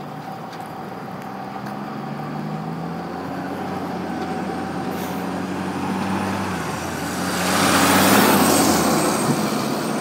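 A heavy road vehicle's engine growing louder as it approaches, passing close by about eight seconds in with a rush of noise, then fading a little.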